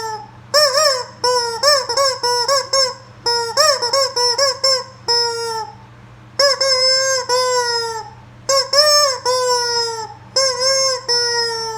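Rubber chicken toy being squeezed over and over, letting out loud squawking squeals in quick clusters, some short and some drawn out for a second or more.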